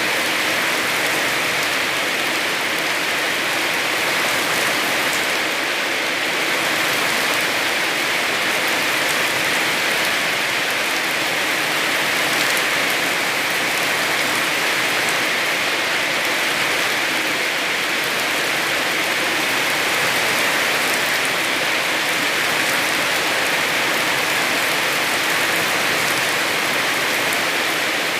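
Heavy rain falling steadily: a dense, even hiss that holds level throughout.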